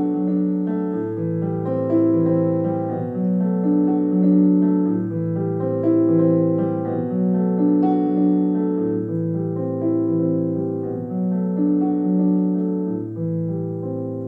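Piano playing a slow instrumental passage of held chords, the chord changing about once a second over a bass note that moves about every two seconds.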